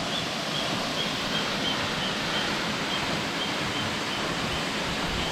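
Waterfall and falling water making a steady rushing noise, with a faint high chirp repeating about twice a second over it.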